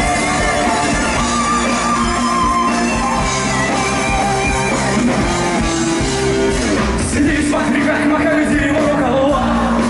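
Rock band playing live, with singing over a full band.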